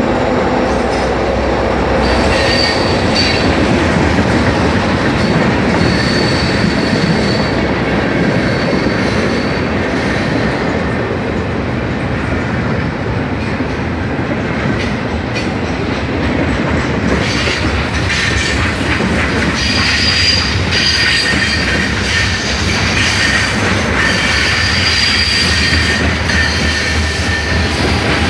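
Freight cars of a mixed freight train rolling past: a steady rumble and clatter of steel wheels on rail, with thin high wheel squeals coming and going, more often near the end.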